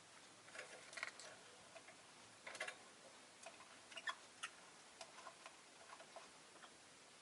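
Faint, irregular clicks and ticks from a rosy-faced lovebird, coming in short clusters about a second, two and a half and four seconds in, with a few lighter ticks after.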